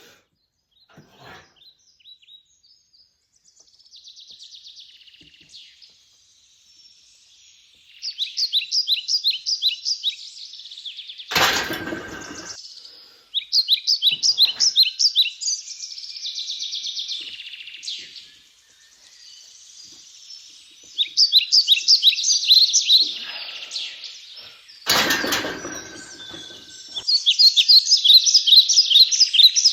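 Bird chirping in bursts of rapid trills, quick runs of repeated high notes lasting a couple of seconds each, recurring several times. Two loud knocks break in, about a third and five-sixths of the way through.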